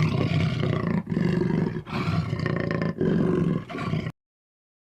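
Jaguar roaring: about five hoarse calls, each roughly a second long, in close succession, cutting off about four seconds in.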